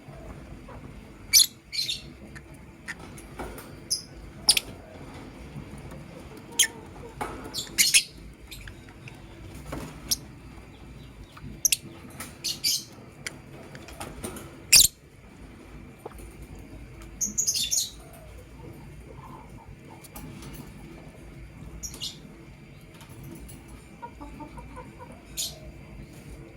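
Lovebirds giving short, sharp, high-pitched chirps at irregular intervals, a second to a few seconds apart, now and then in quick pairs. One busier burst of chirping lasts about a second, over a steady low hum.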